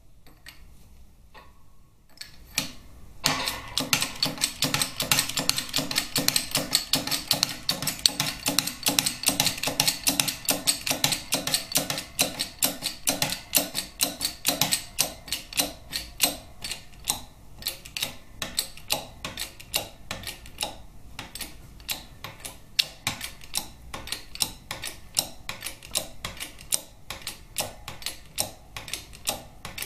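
Shop press being worked in rapid, regular clicking strokes as it pushes the main drive gear bearing out of a Harley-Davidson Twin Cam 88 transmission case. The clicking starts about two to three seconds in and keeps going, a little sparser in the second half.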